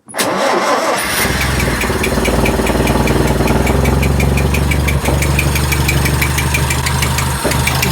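A 1929 Riley 9's rebuilt four-cylinder engine fires up and settles into running steadily, with a light regular ticking, several a second, over the engine note.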